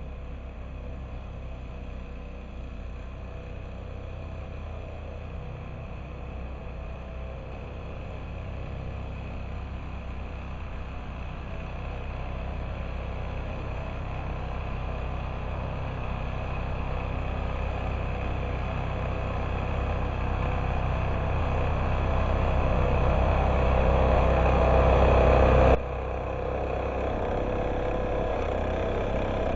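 A vehicle engine running steadily, growing louder over most of the stretch, then dropping suddenly in level about 26 seconds in and running on more quietly.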